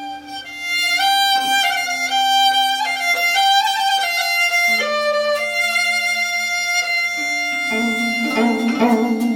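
A bowed string instrument playing a melody of short held notes that step up and down over a sustained lower note; near the end the lower note swells and wavers with vibrato.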